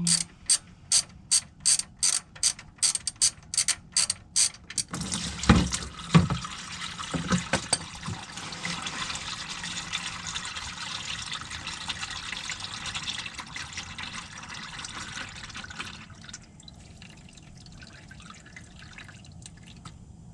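A ratchet wrench clicking steadily, about three clicks a second, as the oil drain plug is backed out. About five seconds in come a few loud knocks, then engine oil gushes out in a steady pour that is messy enough to spill, dropping off sharply about eleven seconds later.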